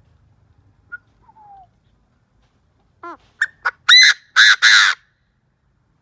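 Decoy Chinese francolin calling: after a few faint notes, a quick run of calls begins about three seconds in and builds to three loud, harsh calls near the end.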